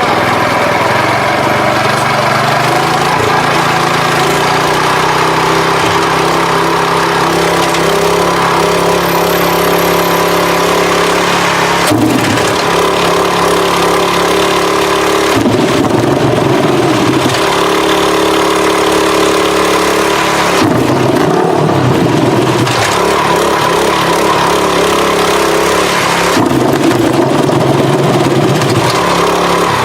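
Ducati Panigale motorcycle's engine through a MotoGP-style exhaust, running steadily at idle and blipped up in revs about four times, the longer rev rises coming in the second half.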